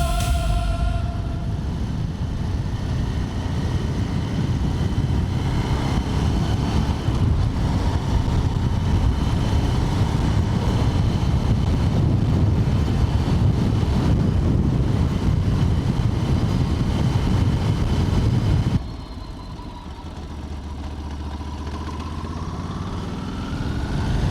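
Ducati Multistrada motorcycle at road speed, heard from the bike: engine and wind rush. About 19 s in it drops suddenly to a quieter, steady low engine note, which rises in pitch near the end as the bike accelerates.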